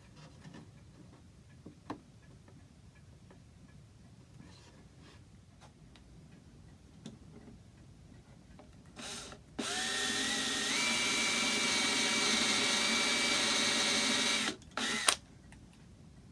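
Power drill running: a brief burst about nine seconds in, then about five seconds of steady running that steps up in pitch as the trigger is squeezed, then a last short blip. Small handling clicks before it.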